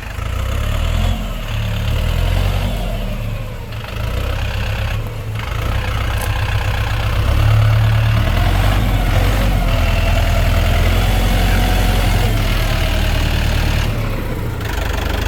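A vehicle engine running, its low rumble swelling and easing in level.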